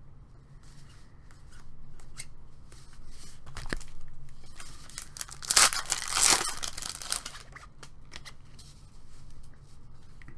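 A baseball card pack's wrapper being torn open and crinkled, with the loudest ripping and rustling about halfway through, among small clicks of handling.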